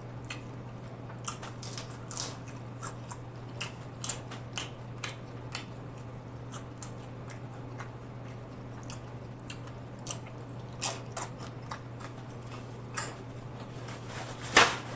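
Close-up chewing and biting of crunchy hard-shell tacos: irregular crisp crunches and mouth clicks, a few a second at most, over a steady low hum. One louder sharp sound near the end.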